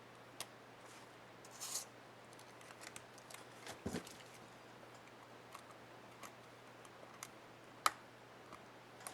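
Small sharp plastic clicks and light scraping from hands working a laptop keycap and its retainer clip, the loudest click near the end. A short scrape about two seconds in.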